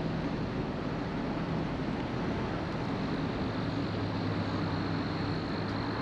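Steady road and engine noise inside a moving car's cabin: an even low hum under tyre and wind hiss.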